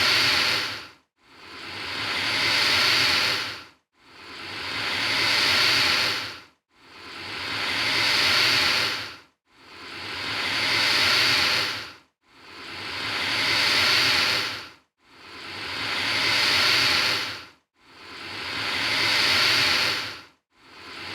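Alligator hissing: the same breathy hiss repeats about every three seconds, eight times. Each one swells up over a second or so and then cuts off sharply into a short gap.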